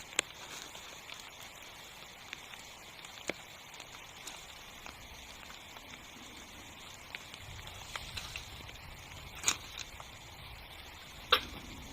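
Rain falling on a tent, a steady hiss with scattered sharp drop taps on the fabric. Two louder taps come near the end, and a faint low rumble joins about two-thirds of the way through.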